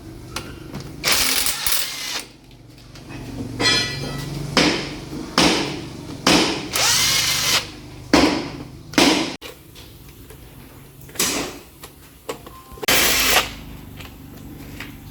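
A power tool run in about ten short bursts of under a second each, one with a higher-pitched buzz about four seconds in, during work on a car's differential gear set.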